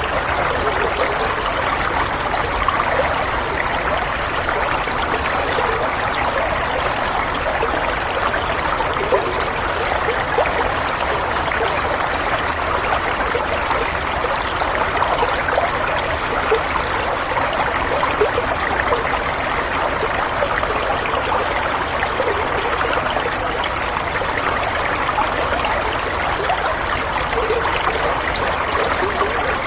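Running water, a steady stream or brook flowing and trickling without pause, played as soothing white noise.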